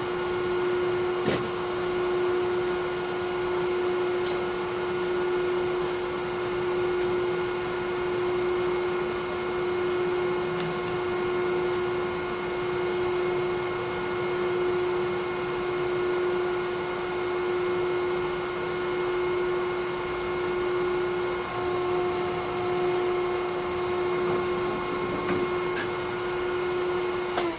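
Hydraulic log splitter's pump and motor running steadily with a constant whine, a small click about a second in.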